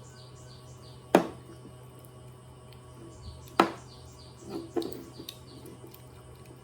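Two sharp knocks about two and a half seconds apart, then a couple of softer clatters, like a knife chopping on a board. Behind them a steady high chirping repeats a few times a second early on.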